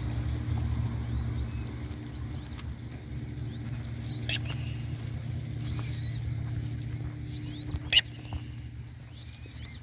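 A steady low engine drone runs throughout, with short high chirping calls from birds scattered over it and a sharp click about eight seconds in.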